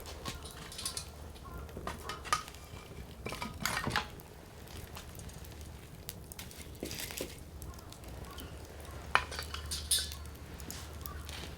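Firewood burning, crackling with sharp pops; the loudest pops come about two seconds in and twice near the end.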